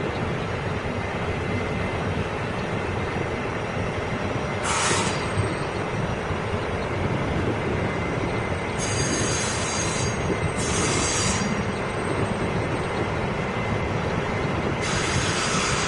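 Passenger train rolling slowly through a station with a steady low rumble. Four short, high-pitched metallic squeals cut in over it: about five seconds in, twice around ten seconds, and again near the end.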